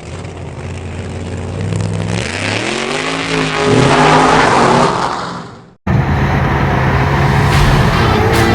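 Drag car engine running steadily, then revving up and accelerating hard, its pitch climbing and loudest about four seconds in before it fades away. After an abrupt cut, another engine runs steadily at a lower rumble.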